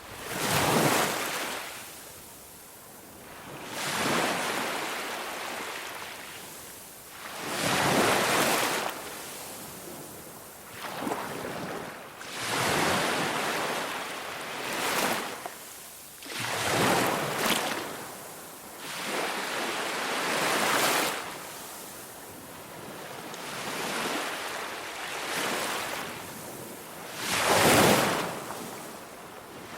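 Ocean surf, waves breaking and washing in with a surge of rushing water every three to four seconds.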